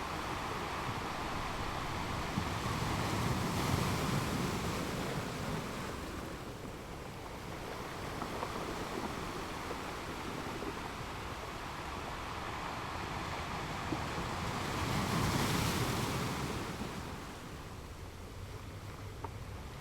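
Strong sea waves surging and breaking on a beach, a steady rush of surf that swells loudest twice, about four seconds in and again around sixteen seconds.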